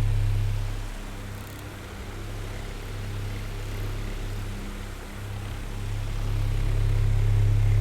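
Oscillating electric fan running: a steady low motor hum under a soft rush of air. It fades about a second in and swells back near the end as the fan head turns away and back.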